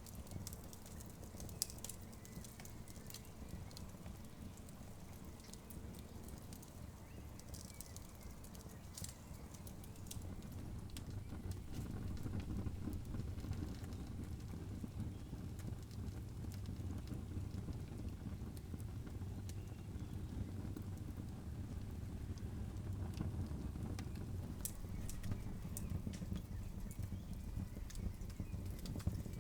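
Campfire crackling, with scattered sharp pops and snaps over a steady low rumble that grows louder about ten seconds in.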